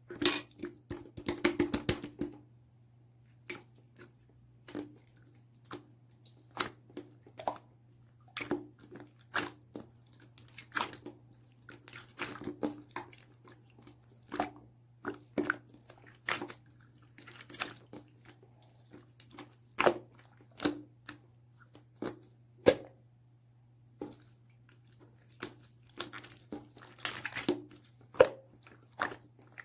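Brown-tinted clear slime being pressed and squished by hand, giving irregular wet clicks and pops with short pauses between them, over a faint steady low hum.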